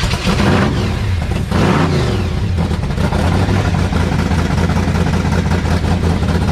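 Supercharged 505-cubic-inch big-block V8 with a 6-71 blower, just started: revved twice in the first two seconds, then running loud and steady.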